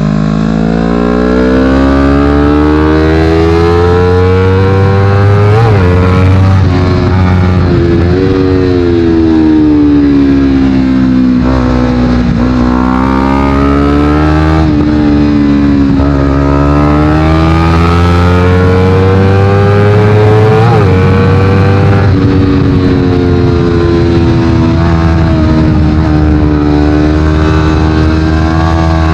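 Honda CBR250RR's parallel-twin engine, through a Yoshimura exhaust, pulling hard up and down the rev range through the gears. The pitch climbs and falls again and again, with a few quick, sharp changes.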